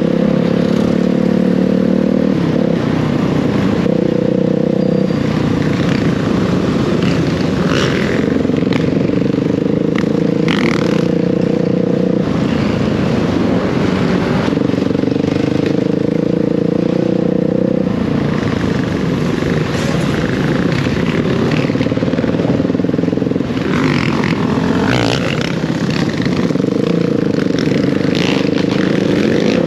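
Dirt bike engine running, its pitch stepping up and down several times as the revs change, with scattered clatter and wind noise.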